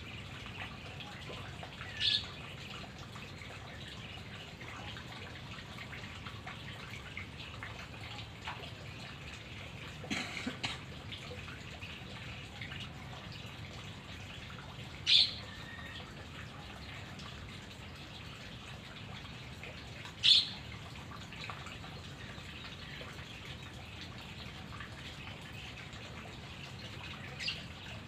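White-rumped shama giving four short, sharp calls several seconds apart, the first dropping in pitch at its end. A steady hiss lies underneath, with a few faint clicks about ten seconds in.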